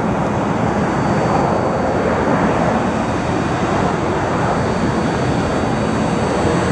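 Boeing 737 airliner on landing approach passing close by: the loud, steady rushing noise of its jet engines, which swells up just as it begins.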